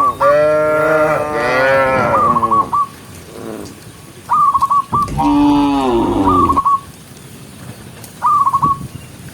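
Cows mooing: two long moos, one at the start and another about five seconds in. Short, high whistled calls with a falling tail come between them, about every two seconds.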